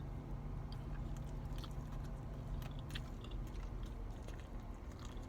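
Close-up mouth sounds of a person chewing food, with small wet clicks scattered throughout, over a steady low hum.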